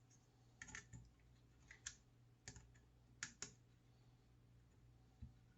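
Faint clicks and light taps from small router parts being handled during reassembly: a handful of sharp clicks in the first few seconds and a soft knock near the end, over a low hum.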